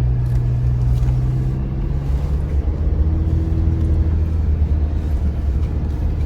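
2025 Chevy Colorado ZR2's 2.7-litre turbo four-cylinder running at low speed as the truck crawls along a rough dirt trail, with a steady low rumble of engine and tyres. The engine note drops to a lower pitch about two seconds in.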